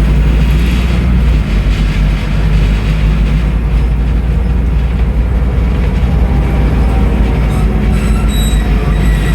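Scania N310UA articulated city bus's diesel engine and drivetrain running under way, a loud, steady low rumble with road and body noise.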